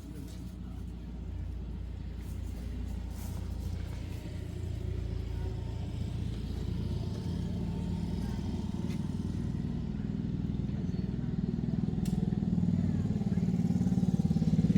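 A vehicle engine running, growing steadily louder as it comes closer or picks up speed.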